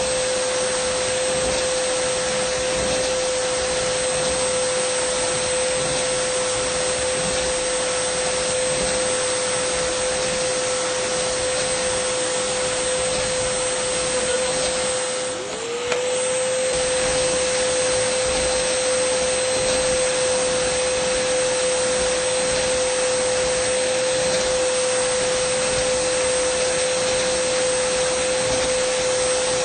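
Dyson vacuum cleaner running steadily: an even rush of air with a high steady whine. About halfway through, the whine and the level dip briefly, the pitch sagging and then sliding back up to speed.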